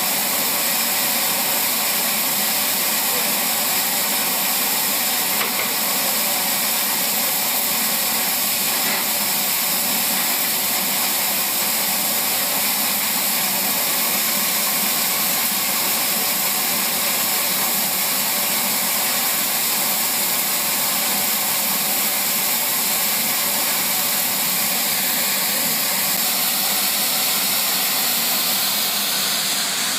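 Steam locomotive blowing off steam: a steady, loud hiss that holds unchanged throughout.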